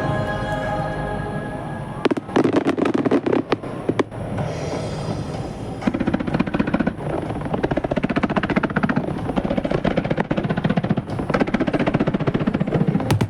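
Finale barrage of aerial fireworks: a dense, rapid string of shell bursts and crackling reports, stuttering like machine-gun fire from about two seconds in, with music playing under it.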